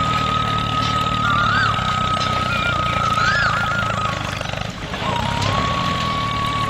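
Small motor of a homemade mini tractor running under load with a steady whine that wavers and swells twice. It dips briefly just before five seconds and then carries on at a slightly lower pitch.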